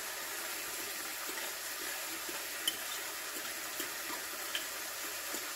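Gammon and onion frying in a pan, giving a steady hiss, with a few faint clinks of a fork against a ceramic bowl as eggs and cheese are mixed.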